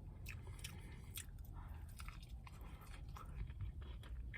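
Close-up chewing of a breaded spicy chicken sandwich, with scattered small crunches of the fried coating.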